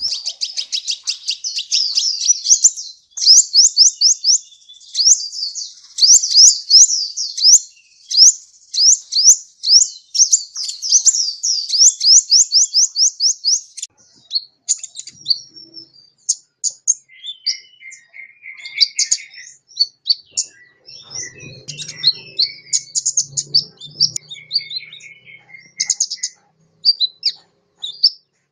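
Kolibri (sunbird) song: a long fast run of sharp, high downswept notes, about four a second, for the first half. After that it breaks into scattered, varied twittering chirps.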